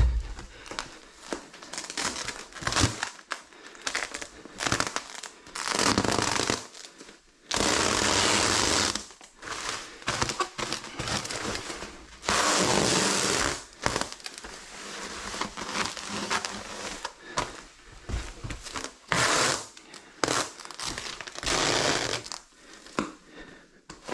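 Plastic underlayment film crinkling and rustling as it is handled and laid out. There are three louder, steadier stretches of rustling about one and a half seconds each, around six, eight and thirteen seconds in.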